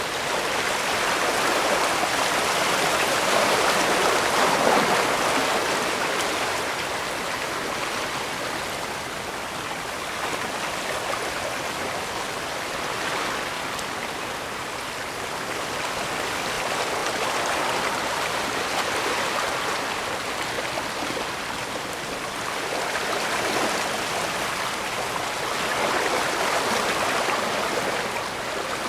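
Bay water washing against the shore, a continuous rushing wash that swells and eases every few seconds.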